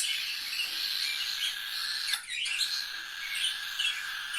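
Pet birds chirping, with many short high calls overlapping.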